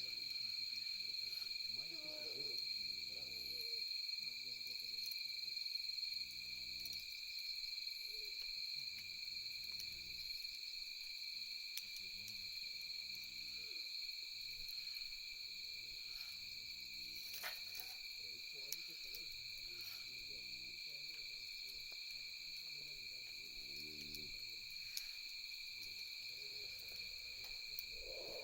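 A steady high insect chorus at night, with an owl hooting every few seconds and a campfire giving occasional sharp crackles.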